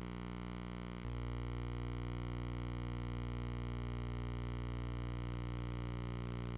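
A steady drone of several held tones, growing fuller in the low end about a second in.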